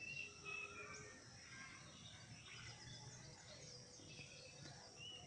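Faint birdsong over quiet outdoor background noise: short whistled notes, some falling in pitch, near the start and again near the end.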